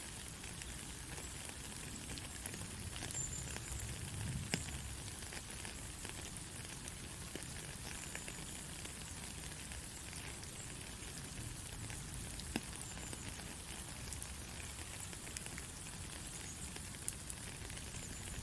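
Steady heavy rain: an even hiss with scattered drop ticks and a low rumble underneath.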